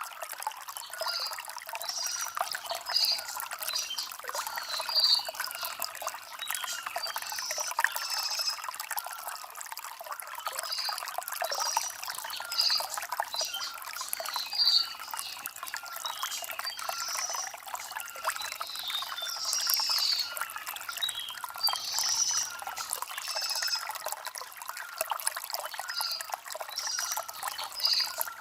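Shallow stream of water trickling and gurgling over river stones, with a bird repeating a short high chirp about once a second.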